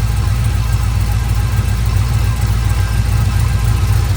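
6.0-litre LS V8 engine idling steadily. The engine is suffering from blow-by, which the owner traces to a stuck-open fuel injector that flooded and nearly hydrolocked one cylinder; he plans to re-ring it.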